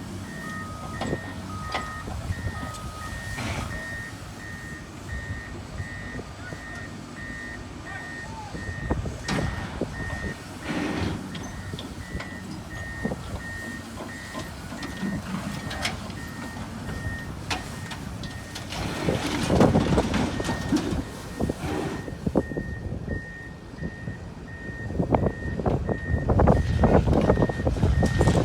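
Vehicle backup alarm beeping evenly, about two beeps a second, over a heavy vehicle's engine running with scattered knocks and clanks. A second, lower-pitched backup alarm beeps for the first few seconds. The engine and knocking noise grows louder twice, about two-thirds of the way through and near the end.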